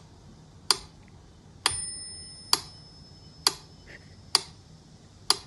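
Sharp, even ticks about once a second, six in all, like a clock. A thin high ringing tone starts with the third tick and fades over the next couple of seconds.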